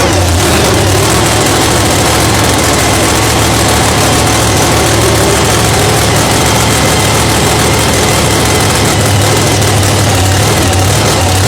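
Car engine idling steadily and loudly.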